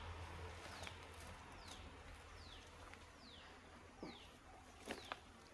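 Faint bird call: a short falling note repeated at an even pace, about one every three-quarters of a second, with a few soft clicks from handling dry leaves.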